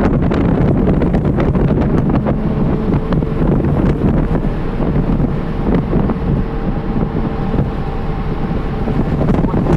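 2012 Porsche Cayman R's 3.4-litre flat-six engine pulling in third gear at around 4,000 to 4,600 rpm. It is heard from inside the cabin under heavy wind and road noise.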